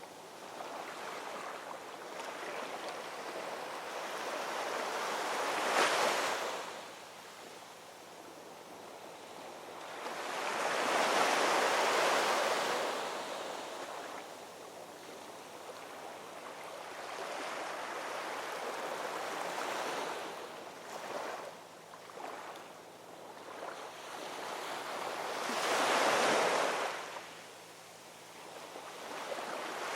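Ocean waves breaking and washing ashore: a steady surf hiss with swells that build and fall away every several seconds, the loudest about 6, 11 and 26 seconds in.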